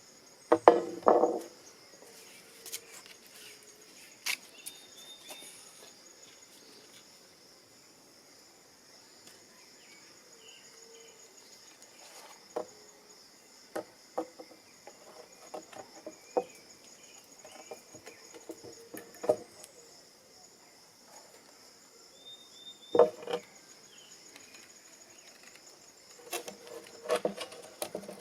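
Steady high-pitched insect chorus in the woods, with scattered knocks and clicks; the loudest knocks come about a second in and again near 23 seconds.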